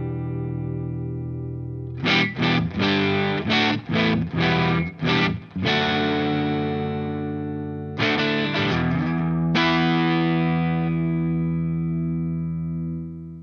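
Electric guitar played through a DOD Looking Glass FET overdrive pedal, with a driven, distorted tone. A held chord gives way about two seconds in to a run of short, choppy chord stabs. Further chords are struck and left to ring before the sound cuts off suddenly.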